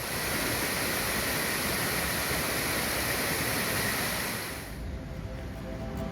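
Steady rush of flowing river water that fades out after about four and a half seconds, as soft music with steady tones begins.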